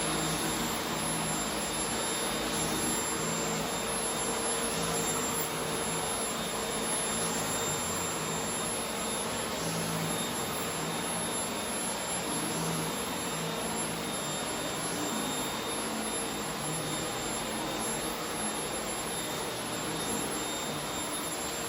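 Corded paper-bag vacuum cleaner running steadily: an even whooshing motor noise with a steady hum.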